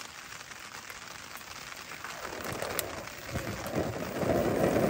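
Wood fire crackling in a small BondStove Mini fire stove, sharp pops over a steady patter like rain; the noise grows louder about three seconds in.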